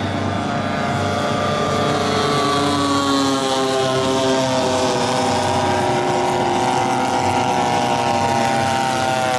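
Engines of a giant-scale RC model warbird droning in flight, several engine notes overlapping, their pitch sliding slowly down as the plane passes and starting to rise again near the end.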